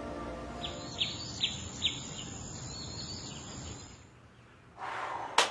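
Bird chirping: about four short, falling chirps roughly half a second apart. Near the end comes a short rush of noise and a sharp click.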